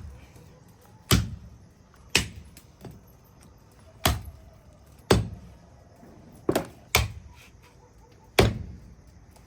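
A blade chopping a whole local chicken into pieces, about seven heavy blows on a chopping board at uneven intervals of roughly a second.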